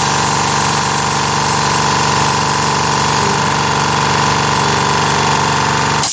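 Carvera Air desktop CNC mill's spindle and end mill cutting a slot in shallow 0.25 mm step-downs, a steady whine made of several tones, cutting off suddenly at the very end. The cut is almost through to the spoil board.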